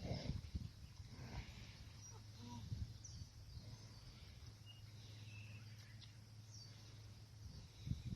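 Faint outdoor ambience: a steady low hum with a few short, high bird chirps and scattered low thumps, the strongest thumps right at the start and near the end.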